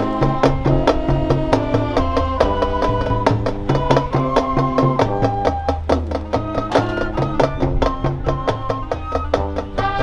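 High school marching band playing, with quick, even percussion strokes over pitched parts and a pulsing bass line.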